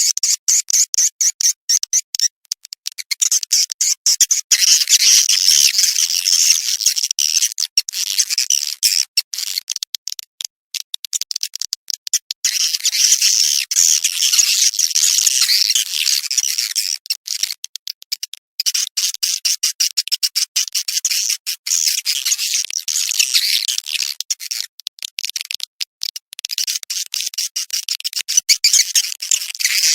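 Swiftlet calling track: dense, rapid, high-pitched twittering chirps and clicks of swiftlets, going on with only brief breaks. This is the kind of call recording played to lure swiftlets into a nesting house.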